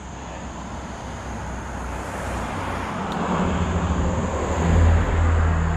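A motor vehicle coming up from behind and passing close on the road, tyre and engine noise swelling to a peak about five seconds in, with a low engine drone under it.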